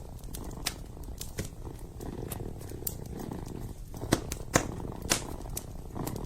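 Kitten purring steadily, a low continuous rumble, with a wood fire in a fireplace crackling over it in scattered sharp pops, a few louder ones about four to five seconds in.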